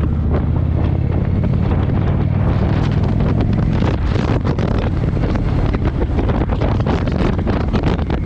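Indian motorcycle engine running steadily while riding, with strong wind buffeting on the microphone.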